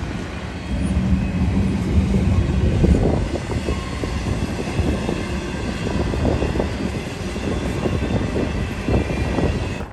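Freight train rolling past: a steady rumble of cars on the rails with repeated knocks and clanks, cutting off abruptly at the end.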